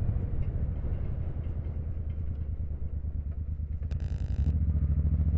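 Motorcycle engine running steadily at road speed, with a short rattle about four seconds in. It is a strange noise that the rider thinks is asphalt pebbles flicking up, or else something loose on the bike.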